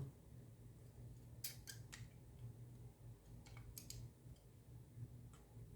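Faint, scattered clicks and taps of an Xbox controller's plastic shell being handled and pressed together.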